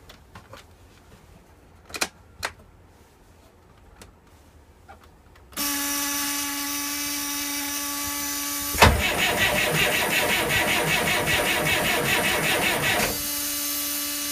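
A few faint clicks, then a steady electric buzz comes on; about nine seconds in, the starter motor cranks the cold Perkins 4.154 four-cylinder diesel with a fast, even rhythm for about four seconds without it firing, and the buzz carries on once cranking stops. This is a dry turn-over to warm the cylinders before starting fluid is used.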